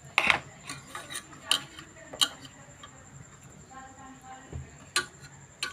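Sharp clicks and taps of hard objects being handled, about eight at uneven intervals, the loudest near the start, with faint voices underneath.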